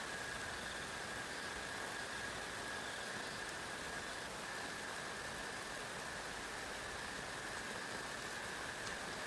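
Steady, even hiss of heavy rain falling, with a faint continuous high-pitched tone running under it.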